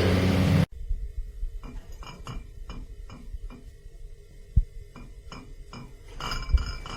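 A series of light clinks and taps, about two or three a second, after a louder steady noise cuts off abruptly early on; a single dull thump about four and a half seconds in.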